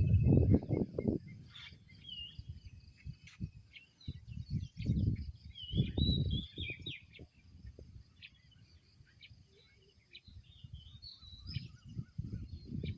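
Small birds chirping outdoors, with many short calls, some of them sliding in pitch. Irregular low rumbles come and go underneath, loudest at the start and again about five to six seconds in.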